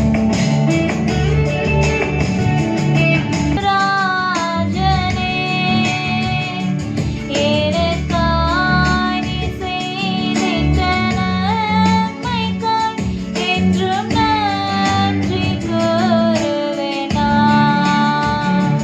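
A song: a high voice sings a melody over guitar accompaniment, coming in a few seconds in and pausing briefly between phrases.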